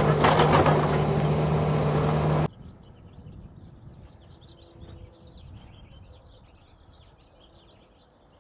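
Tractor engine running steadily at a loud level, with a dense crackle of brush and branches being pushed, cut off abruptly about two and a half seconds in. Faint birdsong follows, many short chirps.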